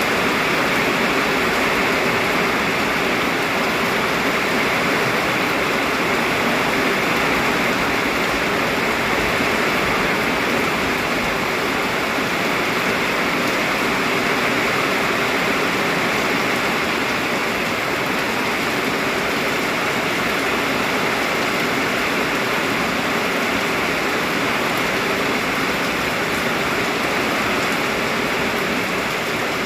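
Heavy rain pouring down steadily, a dense even hiss of falling and running water.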